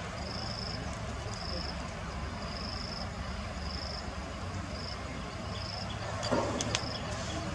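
An insect calling in short high-pitched buzzes, about one a second, over a steady low hum. A brief cluster of clicks and rustling comes near the end.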